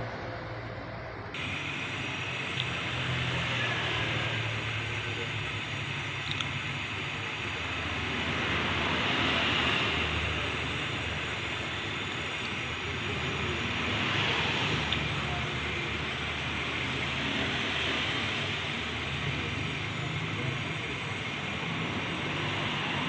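Steady hiss of a brazing torch flame, swelling and easing slowly, as a refrigerator's refrigerant pipe is brazed.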